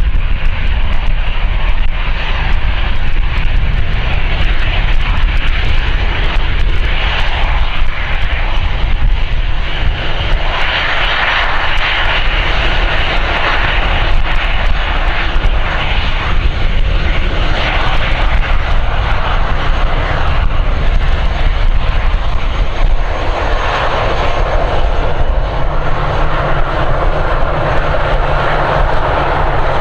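Aircraft engine noise, loud and continuous with a deep rumble. It swells at times, and a thin steady whine comes in near the end.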